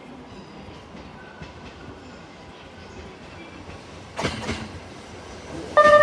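Limited express electric train running along the track, a low rumble with a few wheel clacks and a louder clatter a little after the middle. Near the end a loud multi-note tone starts suddenly.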